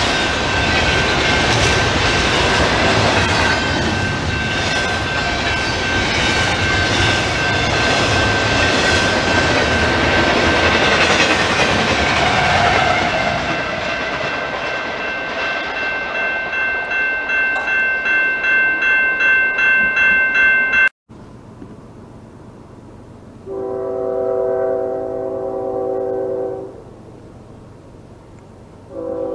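A double-stack intermodal freight train rolls past, wheels clattering over the rail with a steady high ringing tone, fading as the end locomotive goes by. After a break, a distant diesel locomotive horn sounds one long chord of several notes for about three seconds, and starts another blast near the end.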